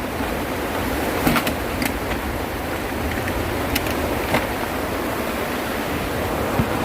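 Heavy rain and strong wind: a steady rushing downpour, with a few sharp taps scattered through it.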